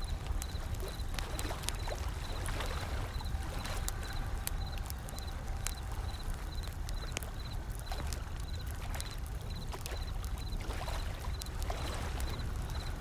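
Crackling wood fire with scattered sharp pops, mixed with gentle ocean waves washing in over a steady low rumble. A short high chirp repeats about twice a second.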